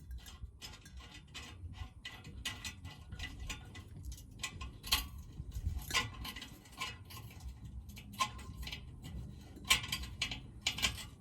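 Quick irregular metallic clicking and ticking, typical of a hand ratchet being worked in short strokes on an exhaust tip's clamp bolt, with a few sharper metal clinks.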